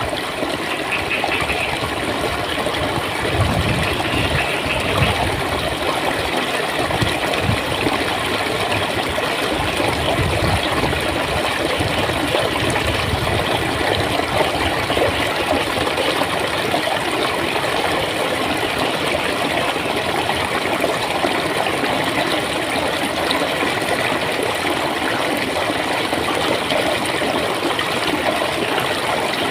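Clear water flowing and gurgling over rocks in a stream, a steady rushing sound.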